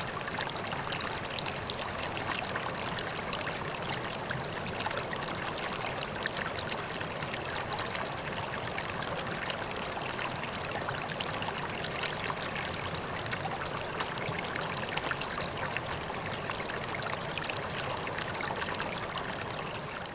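Water running and splashing steadily into a koi pond, a continuous trickling and pouring with many small droplet splashes.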